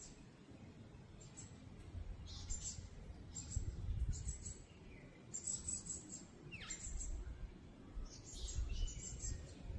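Small birds chirping: many short, high chirps scattered throughout, with one call sliding down in pitch a little before the 7-second mark, over a low background rumble.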